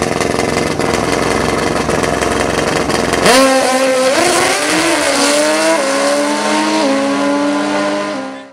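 Drag-racing engine running low at the line, then launching hard about three seconds in: the pitch climbs and drops back at each of several quick gear changes as it accelerates away.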